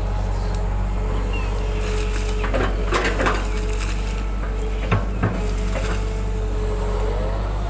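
Excavator engine running steadily with a constant whine, broken by a cluster of clanks about three seconds in and two sharp knocks about five seconds in.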